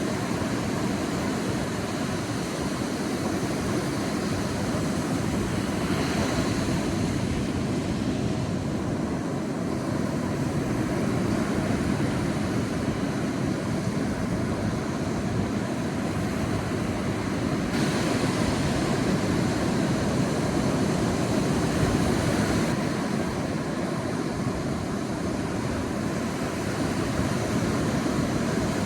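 Sea waves breaking and washing onto a beach, a continuous surf rumble that swells and eases, with brighter hissing washes about six seconds in, around two-thirds of the way through, and again shortly after.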